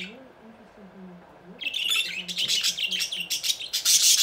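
Pet budgerigars chattering: a short chirp, then a busy run of rapid, high chirps and squawks that grows louder toward the end.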